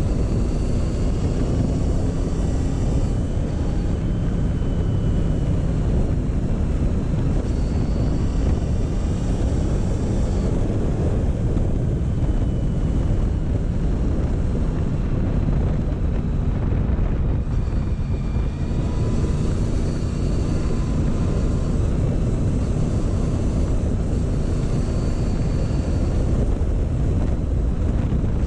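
Motorcycle engine running at a steady, easy pace, its note rising and falling a little, with wind noise on the microphone.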